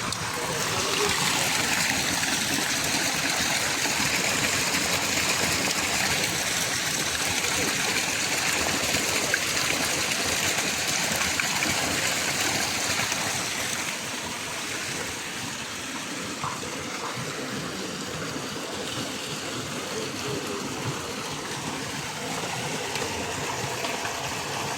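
Steady rushing water, like a flowing stream. It is a little louder for the first half and eases slightly about fourteen seconds in.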